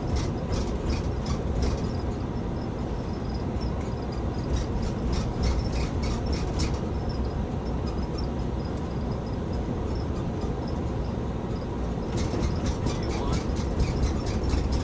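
Boeing 757 takeoff roll heard from the flight deck: a steady, loud engine and runway rumble with rapid, irregular clacking thumps in clusters, typical of the wheels running over runway joints and lights as the aircraft accelerates.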